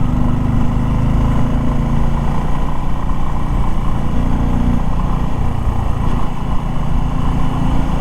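Motorcycle engine running steadily while riding, its low hum shifting slightly in pitch about halfway through.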